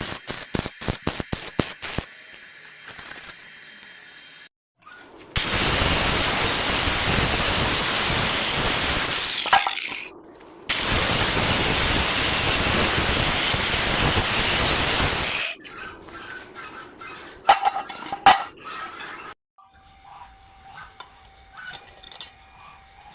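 A power tool running under load in two bursts of about five seconds each: a harsh noise with a steady high whine that falls away as the first burst ends. Rhythmic clicking comes before the bursts and scattered metallic clinks after them.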